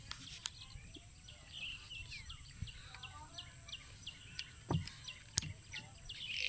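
A small bird chirping over and over, short falling chirps about three a second, over a low outdoor rumble. A soft thump and a click come late on as the fish are handled on the boat's bamboo floor.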